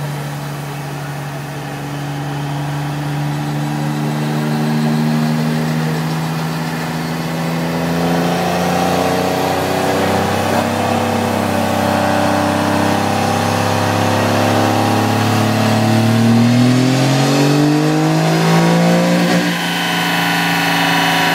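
Built 6.7 Cummins diesel pickup running on a chassis dyno. The engine holds steady at first, then its pitch sags and climbs steadily as it pulls harder and louder. The revs drop suddenly a couple of seconds before the end.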